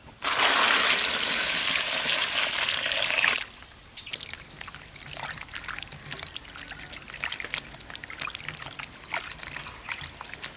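Liquid being poured in a steady stream for about three seconds, stopping suddenly, followed by small scattered drips and clicks.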